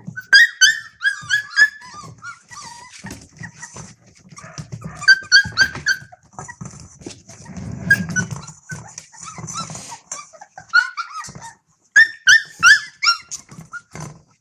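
Month-old Australian Cattle Dog puppies yelping and whining in several bursts of rapid high-pitched cries while they eat meat, with clicks and smacks of eating throughout and a low rumble around the middle.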